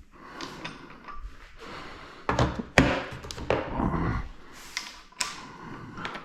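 Scattered clinks and knocks of hand tools and metal engine parts being handled, the sharpest knock about three seconds in, with some short scraping in between.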